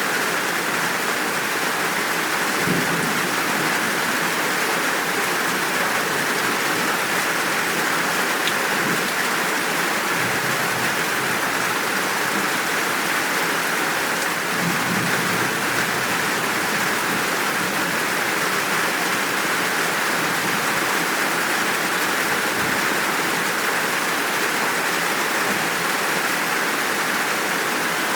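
Steady, full downpour of rain, with faint low rumbles of distant thunder a few times.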